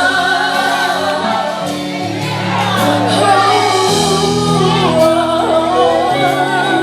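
Live gospel worship music: singers draw out a wavering, ornamented vocal line over sustained low chords that step from one to the next.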